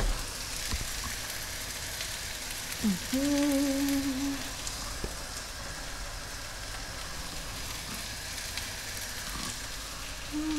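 Chopped garlic and onions sizzling in hot olive oil in a pan, a steady frying hiss. About three seconds in, a person hums one short note.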